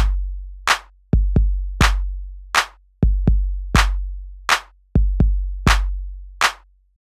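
Electronic drum-machine beat: deep kick drums with a long low boom alternate with sharp snare or clap hits, in a steady pattern that stops near the end.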